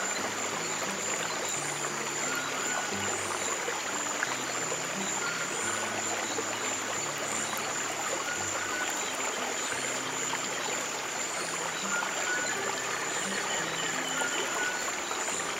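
Running stream water, a steady flowing trickle, with soft, slow low sustained music notes underneath. A faint high steady tone and a short high chirp repeat about every second and a half.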